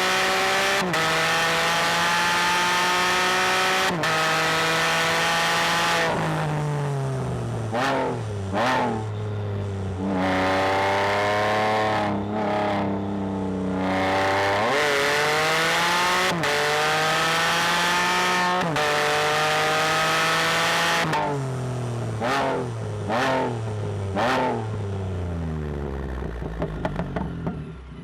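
Can-Am Spyder F3-S's 1330 cc Rotax three-cylinder engine with a cat-delete exhaust, accelerating hard through the gears, its note climbing and dropping at each upshift. In between it backs off, with quick throttle blips on the downshifts into corners, and near the end it drops off the throttle with a brief crackle.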